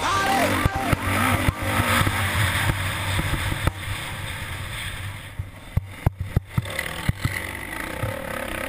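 Motocross bike engine running and revving, rising and falling in pitch, heard through a GoPro's microphone with wind noise, and a few sharp knocks about six seconds in. Music trails off at the start.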